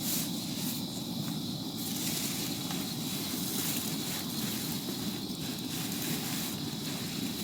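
Steady heavy rain falling, a dense even rush of noise without distinct events.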